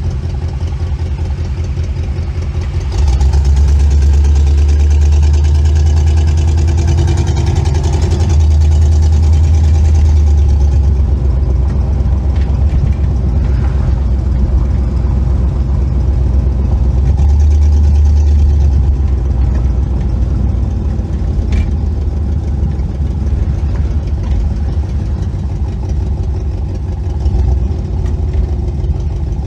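1962 Chevrolet Impala's 283 small-block V8 running on the road, a steady low engine sound that swells louder about three seconds in and again around seventeen seconds.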